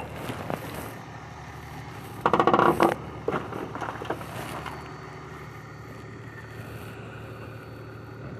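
Vehicle engine idling with a steady low hum, a few sharp knocks near the start, and a brief loud burst lasting under a second about two seconds in.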